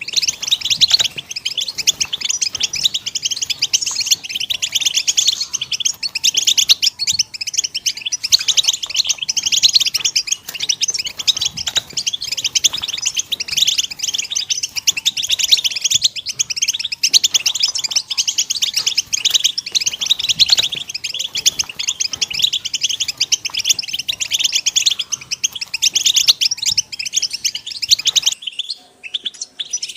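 A group of European goldfinches singing and calling together in a dense, continuous twittering chatter. It breaks off about 28 seconds in, and thinner chirping follows.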